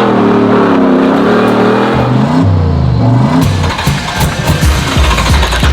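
A car engine revving hard, its pitch rising and falling. It swings up and down quickly a few times near the middle, then turns rougher and noisier in the second half.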